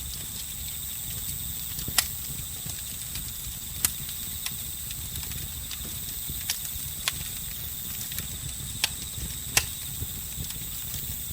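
Campfire crackling: a low steady rumble of flames with about six sharp pops scattered through it, layered with a steady high trill of crickets.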